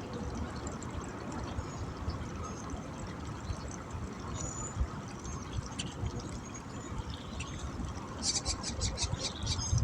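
Water trickling and lapping, under a steady low rumble. Near the end comes a quick run of faint sharp ticks.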